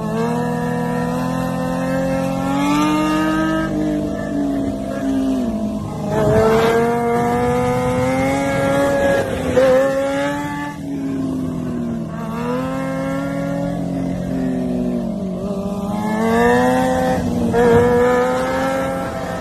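Superbike engine accelerating hard through the gears: its pitch climbs over a few seconds, then drops at each shift, several times over. A steady low engine drone runs underneath.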